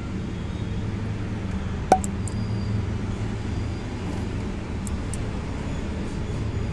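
Car engine idling, a steady low hum heard inside the cabin, with one sharp click about two seconds in.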